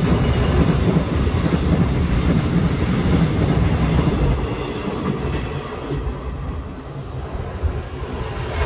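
Mugunghwa-ho passenger train, hauled by an electric locomotive, passing close by, its wheels clattering over the rail joints. The sound eases off a little about six seconds in.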